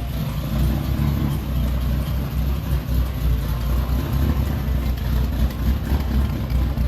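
A car engine running at a steady idle, with a deep, even rumble.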